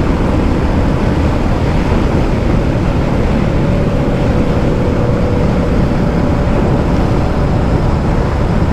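Royal Enfield Classic 350's single-cylinder engine running steadily at high speed, its drone mixed with heavy wind rush over the microphone.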